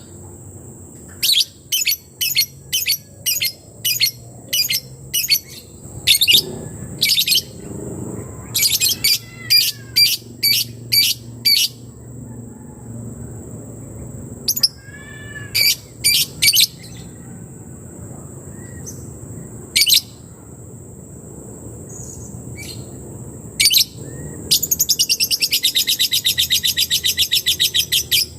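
A lebet bird's 'ngetik' call: sharp, high chip notes repeated about two a second in several runs, then a fast, even ticking trill near the end, like typing.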